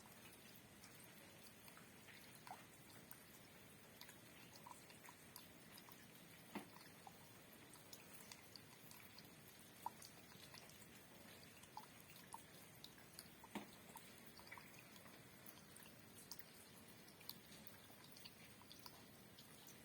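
Light rain at night: a soft, steady hiss with scattered, irregular drops ticking on a hard surface, a few of them sharper and louder.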